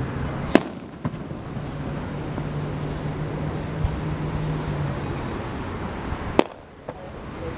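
Aerial fireworks going off: a loud sharp bang about half a second in, a quieter crack just after, and another sharp bang near the end. A steady low hum and background noise run underneath.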